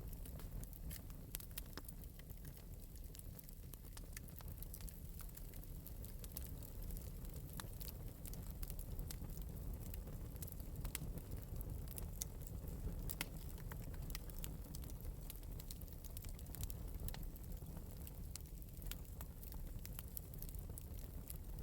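Fire in an open metal fireplace crackling, with frequent small sharp pops scattered over a low, steady rumble of the flames.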